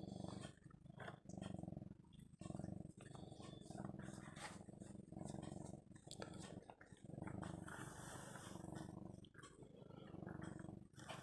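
Domestic cat purring, a low rumble that swells and dips about once a second with each breath in and out.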